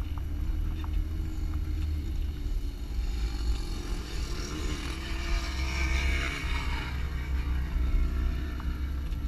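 Jeep engine running, a steady low rumble heard from inside the vehicle, with a higher hiss that swells and fades around the middle.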